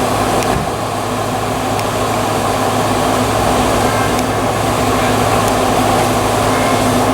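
The 4.7-litre V8 of a Maserati Quattroporte GTS, fitted with a Larini sports exhaust, running at a steady cruise. A constant low exhaust note sits over road and wind noise, swelling slightly partway through.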